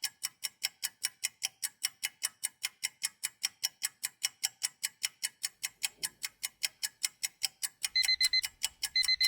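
Ticking-clock countdown sound effect, about four to five even ticks a second, giving way near the end to an alarm clock's rapid beeping in short bursts as the time runs out.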